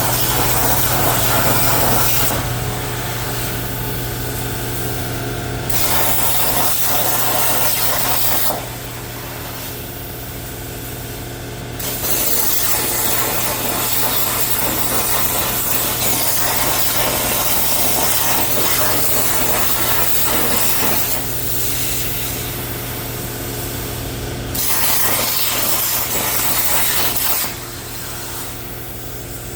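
Everlast 82i plasma cutter on a CNC table cutting 16-gauge hot-rolled steel: a loud, steady hiss over a low hum. The hiss drops back twice, about a third of the way in and again near the end.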